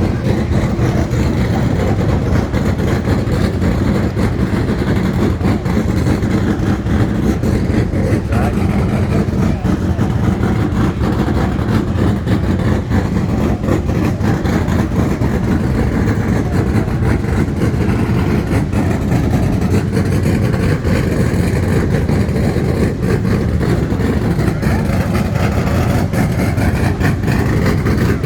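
A car engine idling, loud and steady.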